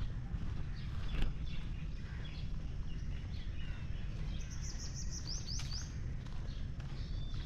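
Birds chirping and calling, with a quick run of high chirps about five seconds in, over a steady low rumble.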